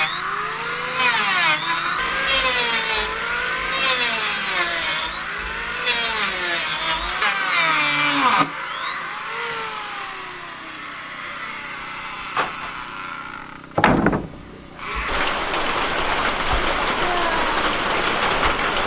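A saw cutting through wood in repeated strokes, about one a second, each stroke with a ringing tone that rises and falls; the sawing stops about eight seconds in. A sharp knock follows near the middle, then a steady even hiss.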